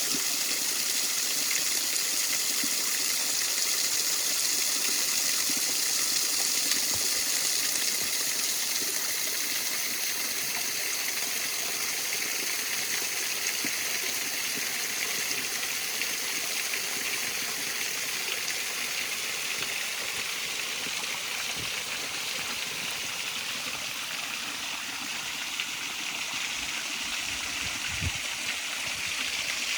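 Steady rush of water pouring down a waterfall in winter.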